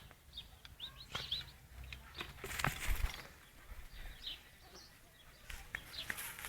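Faint, short bird chirps here and there, with scattered clicks and rustling.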